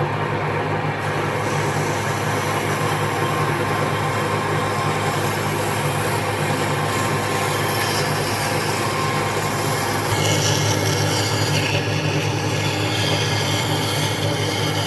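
A power tool running steadily on wood, a continuous machine noise that shifts slightly in tone about ten seconds in.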